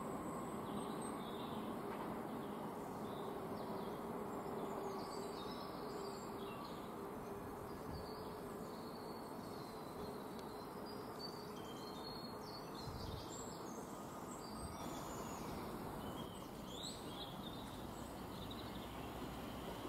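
Faint, scattered high-pitched chirps of small birds over a steady low background hum.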